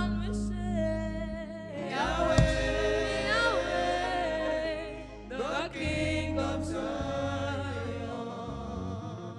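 Gospel worship song: voices singing a held, melismatic line over sustained keyboard and bass notes, gradually fading out near the end.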